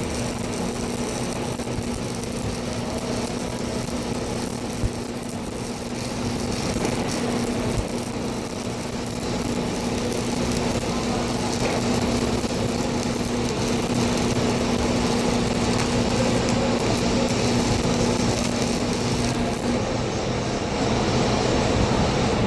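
Welding equipment running: a steady hum with a constant low tone over a continuous hiss. The tone drops out and the high hiss thins near the end.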